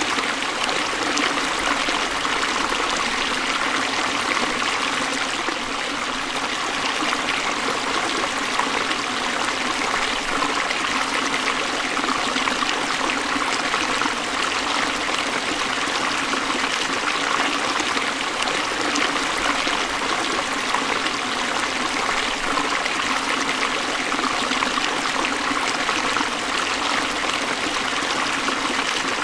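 Forest stream flowing steadily over rocks, a continuous trickling and splashing of running water.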